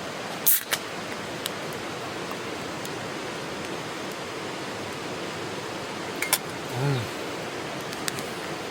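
Steady rushing background noise with a few sharp snaps and pops from a wood campfire, and a short low hum from a person about seven seconds in.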